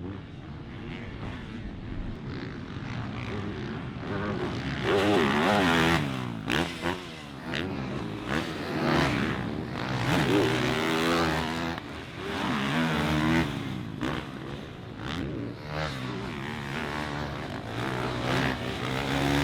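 Several motocross dirt bikes racing, their engines revving up and falling off again through gear changes and throttle blips, overlapping one another.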